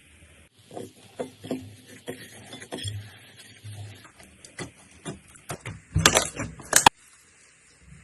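Slime being squished and pressed by hand, giving a run of sticky clicks and pops. The loudest and densest burst comes near the end and stops abruptly.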